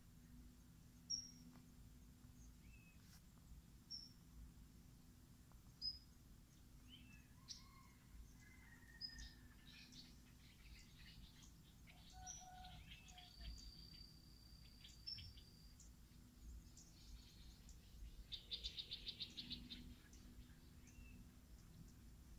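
Quiet birdsong: scattered short, high chirps, a single held whistle lasting about two seconds past the middle, and a fast trill in the last few seconds.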